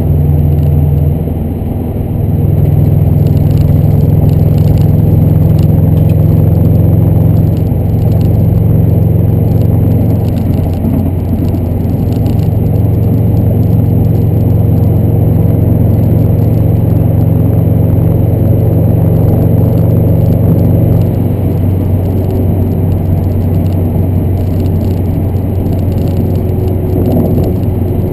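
2011 Subaru WRX's turbocharged flat-four engine running at a steady speed, its exhaust giving a loud, steady low drone. The drone dips briefly about a second in, then comes back stronger, and eases a little about twenty seconds in.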